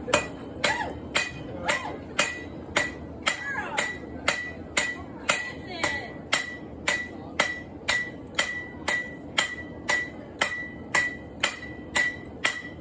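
A hand hammer strikes a hot railroad spike on an anvil in a steady rhythm of about two blows a second, forging the spike into a knife blade. A ringing tone from the anvil carries on between the blows.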